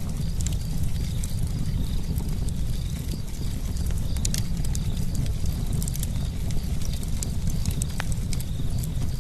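Wood campfire burning: a steady low rumble of the flames with frequent, irregular sharp crackles and pops from the burning wood.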